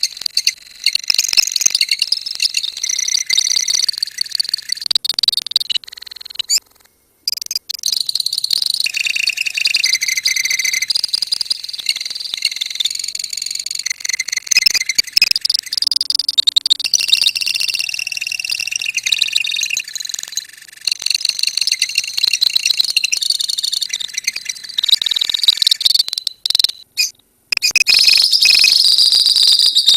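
A colony of lovebirds singing: dense, high-pitched rapid chattering and trilling from many birds at once. It breaks off briefly about seven seconds in and again near the end.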